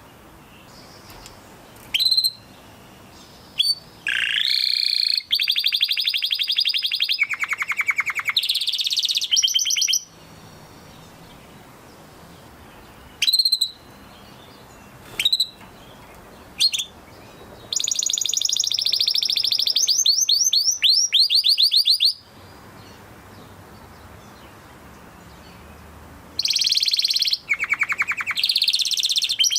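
Domestic canary singing: phrases of fast rapid-note trills and rolls, broken by pauses, with a few single chirps in the middle.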